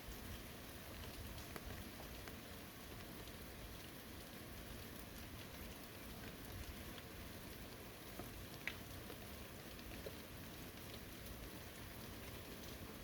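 Steady light rain in a forest, with a faint even patter and scattered single drops ticking close by, one a little louder about nine seconds in.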